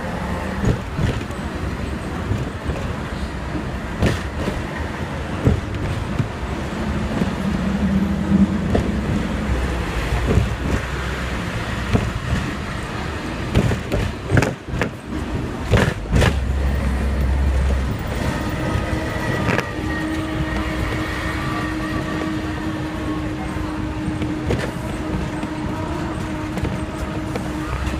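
Hong Kong tram running through the street, heard from aboard: continuous rumble of the car on its rails, broken by frequent short knocks and clatters. A steady hum joins about two-thirds of the way through.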